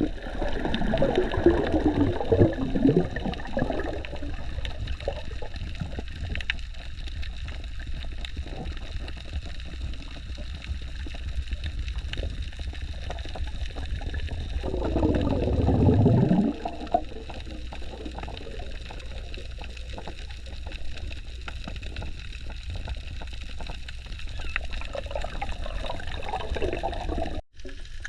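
Underwater sound heard through a camera's waterproof housing: a steady low rush of water with gurgling bubble bursts near the start, about halfway through, and near the end.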